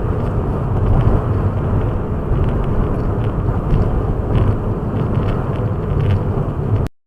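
Steady road and engine noise of a car driving, as picked up by a dashcam inside the car; it starts and cuts off abruptly.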